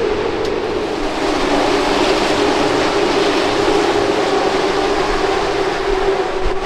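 Race car engines from the field circulating the track, an unbroken engine drone with a constant hum.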